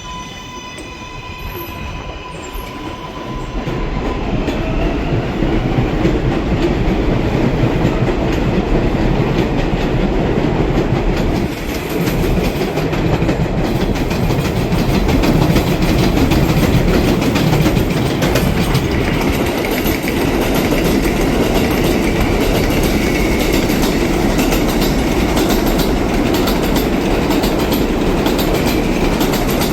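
A New York City Subway 7 train (R188 cars) on the elevated IRT Flushing Line. It opens with a few seconds of electric motor whine, then its wheels clatter loudly over the rails from about four seconds in to the end.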